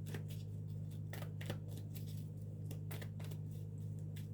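Tarot cards being handled and flicked: a scatter of light, sharp clicks and rustles over a steady low hum.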